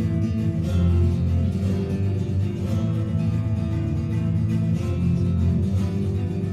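Flamenco guitar music.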